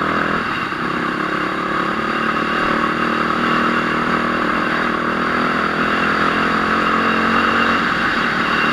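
Enduro motorcycle engine running steadily, its pitch dipping and recovering briefly about half a second in.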